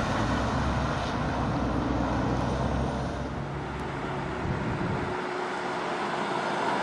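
Fire trucks driving past with a heavy engine rumble and road noise; the low rumble drops away about five seconds in.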